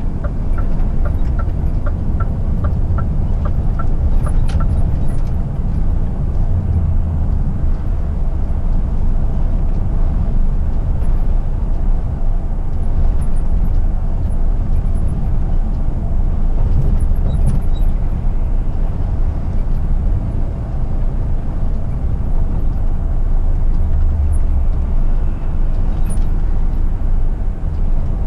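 Scania R450 truck's 13-litre six-cylinder diesel engine running under way at highway speed, a steady low rumble mixed with road noise. A regular ticking, about two to three ticks a second, runs for the first four seconds or so and then stops.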